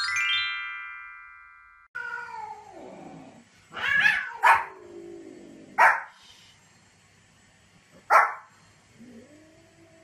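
A short bright chime rings and fades. Then a small white spitz-type dog barks four sharp times, with long drawn-out cries, meow-like, before and after the barks.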